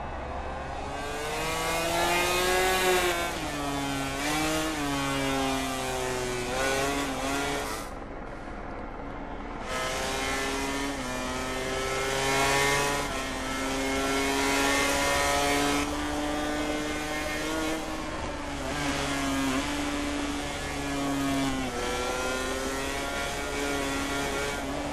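MotoGP racing motorcycle engines revving hard, their pitch climbing and then dropping in steps with each gear change.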